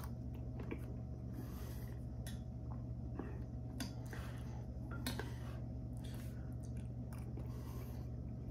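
A man chewing a mouthful of beanie weenies (baked beans and hot dogs), with scattered light clicks of a metal spoon against a ceramic bowl. A steady low hum runs underneath.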